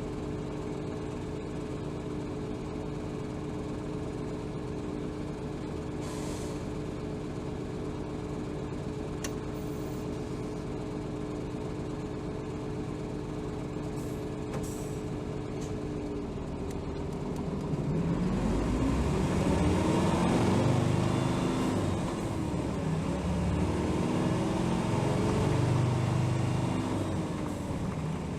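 Hino Rainbow HR city bus's diesel engine, heard from inside the bus, idling steadily. About two-thirds of the way in it revs up as the bus pulls away and gets louder, its pitch rising and falling several times as it accelerates.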